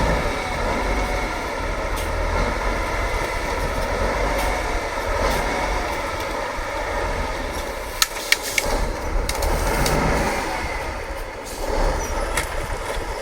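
Heavy off-road trial truck's diesel engine working, its note rising and falling with the throttle. Two sharp knocks come about eight seconds in.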